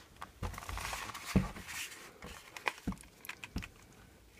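Small parts and tools being handled: a brief rustle, then a few separate clicks and taps.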